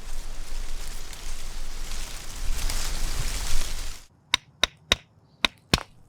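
Dry fallen leaves and twigs crackling and snapping underfoot for about four seconds. Then, after a sudden cut, two wooden sticks are struck together five times, sharp dry clacks in a loose rhythm.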